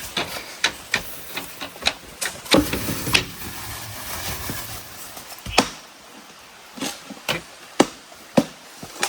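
Irregular sharp knocks of a tool striking wood, one or two a second, pausing for about two seconds midway, with the loudest strikes after the pause.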